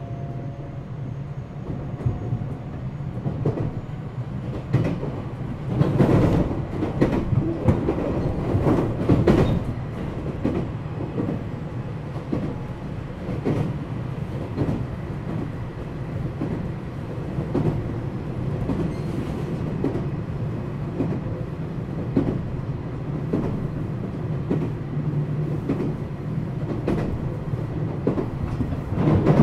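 Running sound inside a JR West 227-series electric train car (KuMoHa 227-68) under way between stations: a steady low rumble with the wheels clicking over rail joints. The clatter grows louder for a few seconds about six seconds in.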